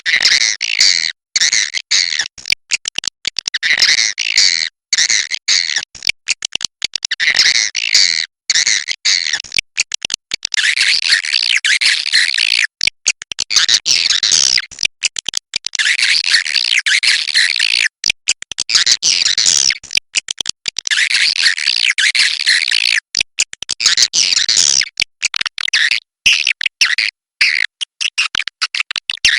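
Edible-nest swiftlets twittering in a dense, high chatter, in rapid runs broken by sudden short gaps. It is a swiftlet roosting-lure recording ('suara inap'), the kind played in swiftlet houses to draw the birds in to roost.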